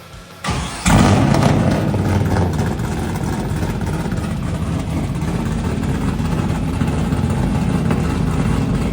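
V8 engine coming in suddenly and loudly about a second in, then running steadily with a strong low note to the end.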